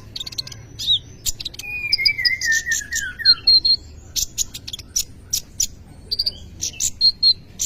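Kolibri ninja (purple-throated sunbird) singing a busy, varied song: rapid sharp high chips, a warbled trill that falls in pitch about two seconds in, and short clear whistled notes. This is the 'full isian' song, packed with phrases copied from other birds.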